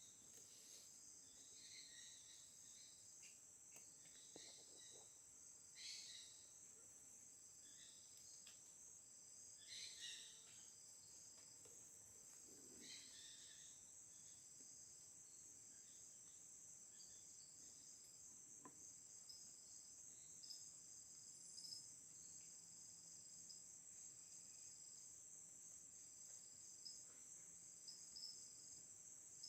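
Faint, steady chorus of insects, a continuous high-pitched trilling, with a few brief louder sounds about 6, 10 and 13 seconds in.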